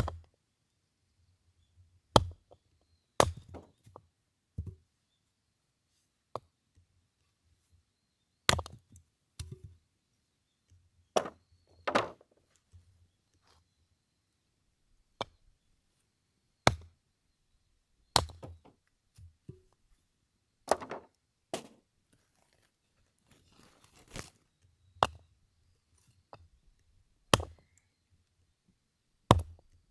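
Firewood being split: sharp chopping blows, about twenty of them, at irregular gaps of one to three seconds.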